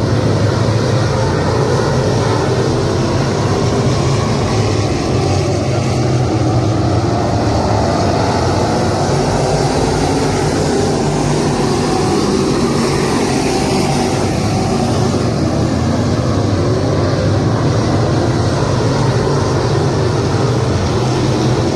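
Dirt-track modified race car engines running steadily at speed, a loud continuous drone whose pitch shifts slightly now and then.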